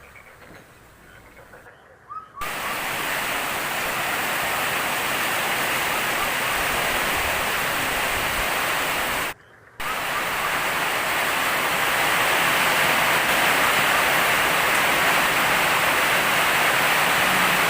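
Heavy rain pouring down, a steady loud rush of noise that cuts in suddenly about two seconds in, with a brief break near the middle; before it only faint bird chirps are heard.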